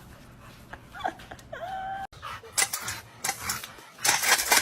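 A dog gives a short whine about a second in: its pitch dips and then holds steady for a moment. After a sudden cut come scattered clicks and taps, and a loud rushing noise near the end.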